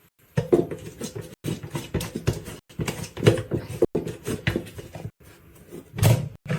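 Sounds from pet animals in several short stretches, each broken off abruptly.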